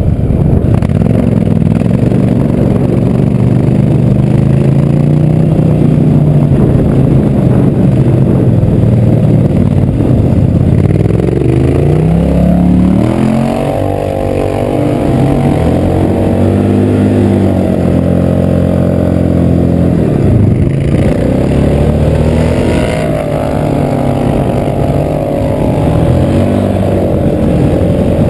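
Go-kart powered by a swapped-in Polaris Sportsman 850 four-stroke twin-cylinder engine running under throttle, its pitch rising and falling as it revs up and eases off, with a sharp climb in revs about halfway through.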